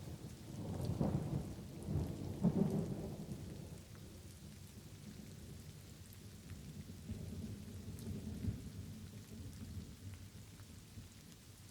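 Light rain falling steadily, with a roll of thunder rumbling up about a second in and fading by four seconds, and a weaker rumble later.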